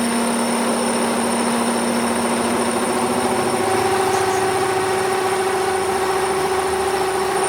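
A machine running steadily with a humming whine. About three seconds in, its pitch steps up and holds, and it cuts off abruptly at the end.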